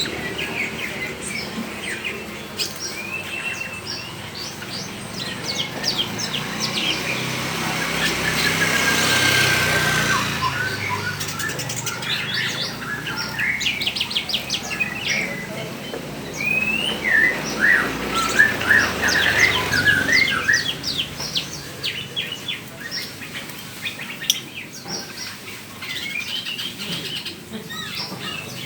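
Many caged songbirds chirping and whistling over one another in short sharp calls and trills. About a third of the way through there is a louder, noisy swell.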